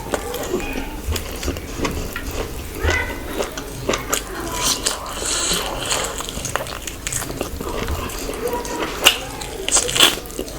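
Close-miked eating: chewing and wet mouth smacks with many short irregular clicks, as food is bitten and chewed.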